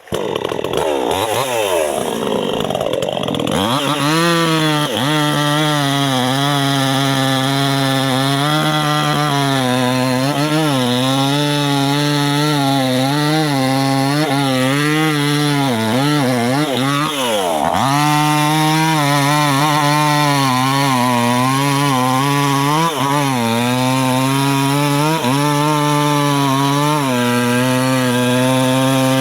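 Two-stroke chainsaw cutting into the trunk of a small suren tree. The engine revs up over the first few seconds, then runs at high speed under load, its pitch sagging and recovering as the chain bites. A little past halfway it drops deeply and climbs back up.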